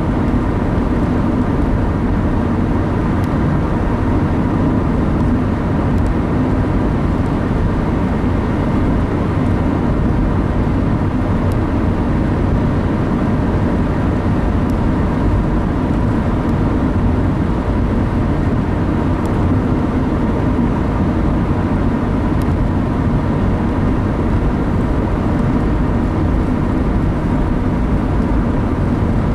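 Steady drone of a car on the move, heard from inside the cabin: engine and tyre noise running evenly without change.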